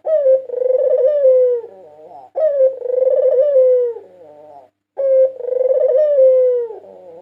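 White collared dove (puter putih) cooing: three loud, long coos about two and a half seconds apart. Each ends in a falling slide and a few softer trailing notes.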